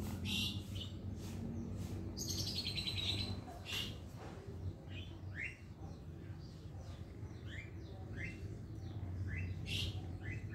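Small birds chirping: a brief trill about two seconds in, then a string of short rising chirps about once a second, over a steady low hum.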